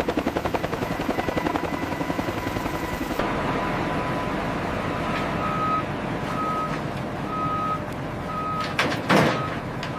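Helicopter rotor chop, which cuts off at about 3 seconds to a heavy vehicle's engine running. From about 5 seconds in, a reversing alarm beeps steadily about once a second, with a loud short burst of noise just after 9 seconds.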